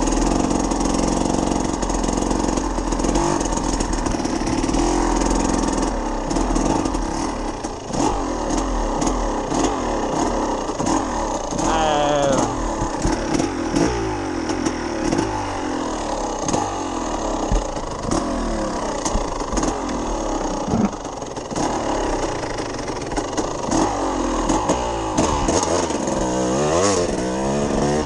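Two-stroke KTM EXC 300 enduro motorcycle engine revving up and down over and over while riding a rough trail, with scattered sharp knocks from the bike over bumps.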